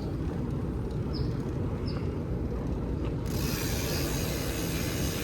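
BMX bike rolling along, with the rear hub's freewheel ratchet ticking over a steady rumble of tyres and wind. A few short high chirps come in the first two seconds, and about three seconds in a louder hiss sets in suddenly.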